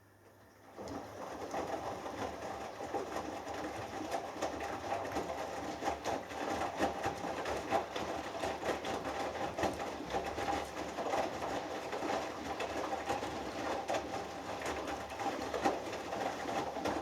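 Hoover Dynamic Next washing machine's drum turning during the last rinse, with wet laundry tumbling and water sloshing. It starts about a second in and stops abruptly near the end, typical of a rinse tumble stroke before the drum pauses.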